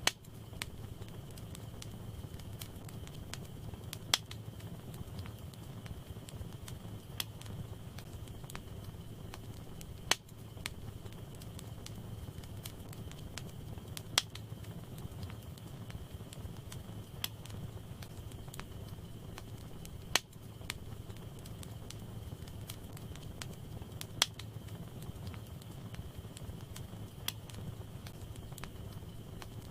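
Wood fire burning in a fireplace: a steady low rumble of flames with small crackles, and a sharp pop every three to four seconds.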